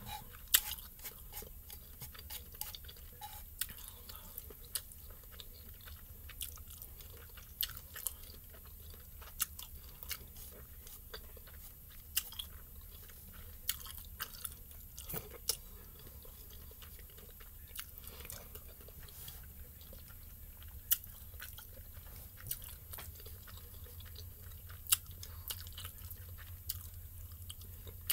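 Close-miked eating sounds: a person chewing spicy instant noodles, with irregular sharp mouth clicks and smacks throughout over a low steady hum.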